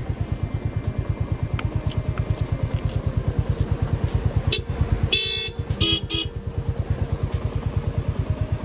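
Royal Enfield Meteor 350 single-cylinder engine idling with a steady, even thump, about ten beats a second. A vehicle horn honks twice, briefly, about five and six seconds in.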